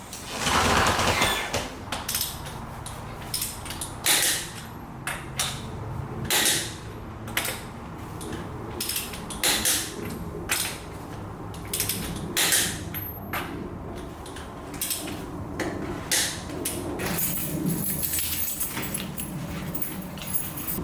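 Irregular knocks and clicks from hands and tools working on a car's front-end parts, about one every half second to second, over a faint low hum.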